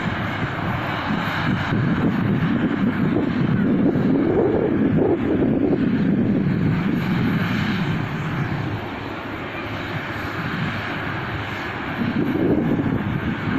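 Cessna R182's piston engine and propeller running steadily, a continuous low drone, easing off a little past the middle and building again near the end.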